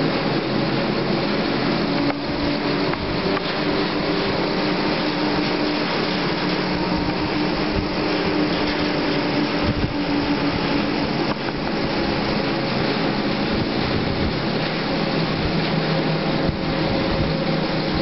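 Cable car haul rope running over the pylon's sheave wheels: a steady rolling rumble with a faint hum of several tones over a rushing hiss.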